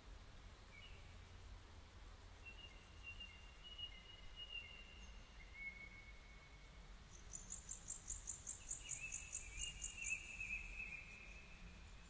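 Wild birds calling faintly: long, thin, drawn-out whistled notes, some overlapping, and from about seven seconds in a fast, high-pitched pulsing trill, over a low background rumble.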